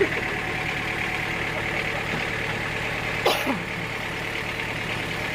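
Sawmill machinery running steadily at an even pitch. About three seconds in, a short squeak slides down in pitch.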